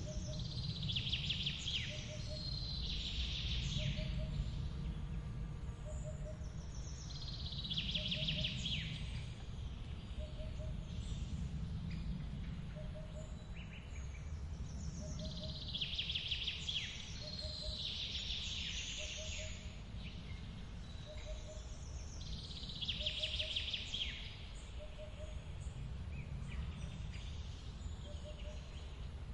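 Steady low rushing of a forest waterfall, with clusters of bird song every several seconds. A faint short chirp repeats about every second and a half underneath.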